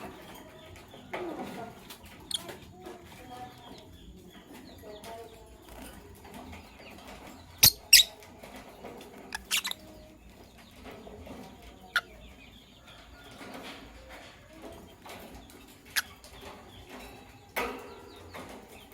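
Lovebirds chattering softly in a cage, broken by a handful of sharp clicks, the loudest a close pair about eight seconds in.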